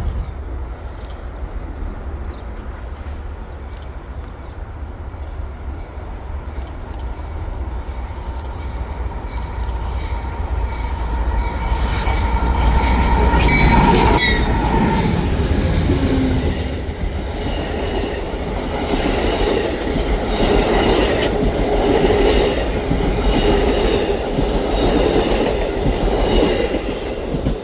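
A train passing close by: a steady rumble that builds to its loudest about halfway through, with a brief wheel squeal, then steel wheels clicking over rail joints as the cars roll past.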